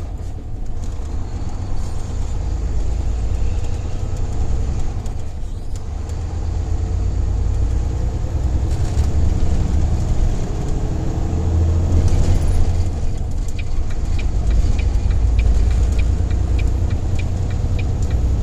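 Diesel semi-truck engines running with a steady low rumble; from about eight seconds in, an engine note rises in pitch as a truck pulls away. Near the end a light, regular ticking comes in at about two or three ticks a second.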